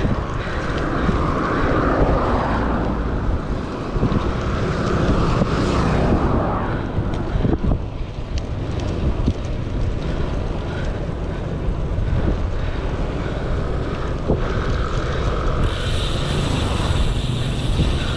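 Wind buffeting the microphone of a camera on a moving bicycle, a steady low rumble that lasts throughout.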